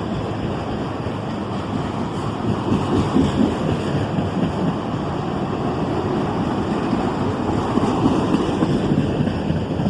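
Cars of a long CSX freight train rolling past, a steady rumble and rattle of wheels on the rails that swells a little now and then.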